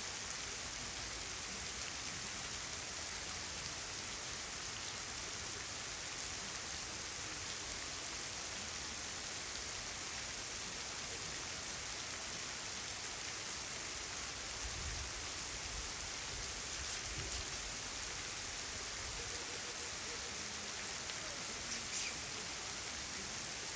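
Heavy rain falling steadily, an even hiss with no let-up, with a couple of faint knocks near the end.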